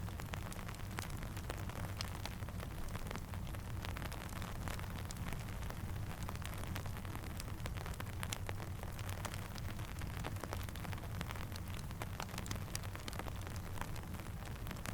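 Steady rain with a campfire crackling: an even hiss and low rumble, dotted with many scattered sharp pops and ticks.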